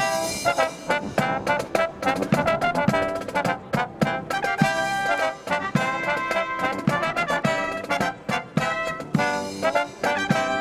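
Live brass marching band (trumpets, trombones and drums) playing an upbeat Christmas medley, with a steady drum beat under the horns.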